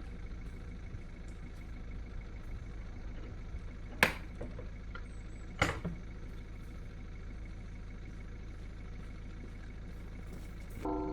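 Tractor engine running steadily in the distance, with two sharp knocks about a second and a half apart midway through and a higher pitched sound starting near the end.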